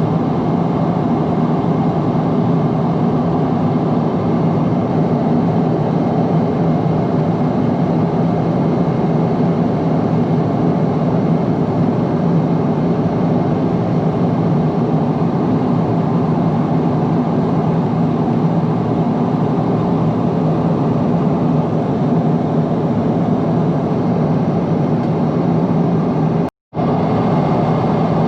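Steady cabin noise of a Boeing 777-300 in flight on approach, jet engines and airflow heard from a window seat as an even rushing with a constant low hum. The sound drops out completely for a split second near the end.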